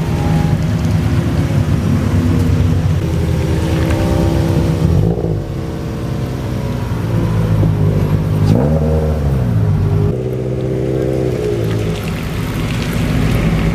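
Car engine running steadily, its pitch dipping and then rising again once, about two-thirds of the way through.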